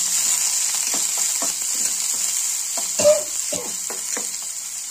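Tempering sizzling in hot oil in a non-stick kadai (mustard seeds, curry leaves, dry red chillies, garlic paste and fresh coriander) while a steel ladle stirs and scrapes through it. A louder clink of the ladle comes about three seconds in.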